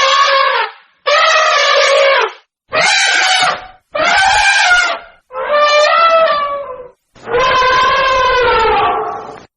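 A run of long, brassy, horn-like honking calls from a hippopotamus, each held at a steady pitch for one to two seconds, with short clean gaps between them.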